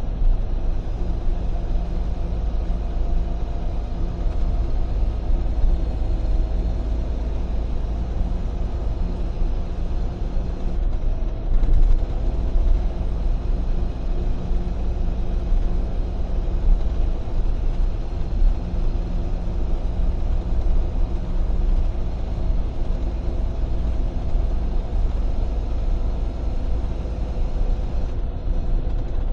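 Freightliner semi-truck cruising at steady highway speed, heard from inside the cab: a constant diesel engine drone with road and tyre rumble, and a brief louder bump about twelve seconds in.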